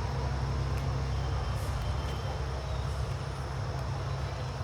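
Outdoor ambience: a steady low rumble, with a faint, steady high-pitched insect drone above it.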